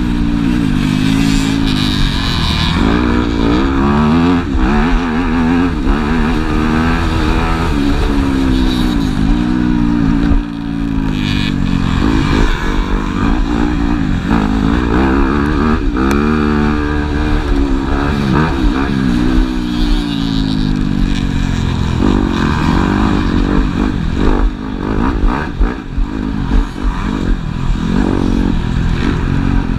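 Motocross bikes racing on the track, their engines revving up and down through the gears. The pitch rises and falls constantly as several bikes overlap.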